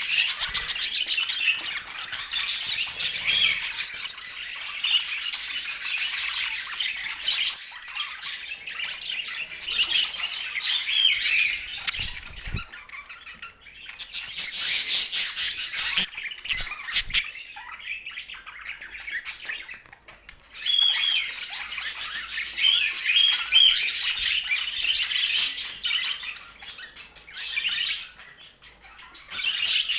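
Budgerigars chirping and chattering in a continuous high twittering, broken by a few short lulls.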